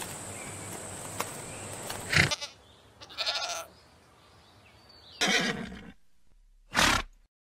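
Farm animal calling: three short, pitched calls a second or two apart, after a stretch of steady hiss.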